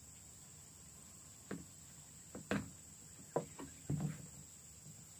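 Insects, crickets or cicadas, keeping up a steady high-pitched drone. Half a dozen short knocks and handling sounds fall between about one and a half and four seconds in; the loudest come near two and a half, three and a half and four seconds.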